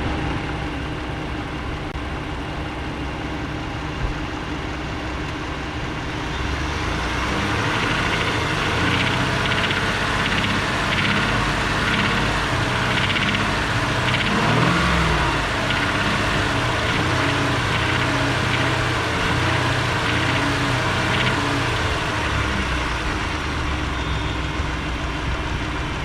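Ford 3.5 EcoBoost twin-turbo V6 running. Its speed comes up about six seconds in and holds, then eases near the end. A knock shows around 2000 rpm, which the owner suspects could be rod knock.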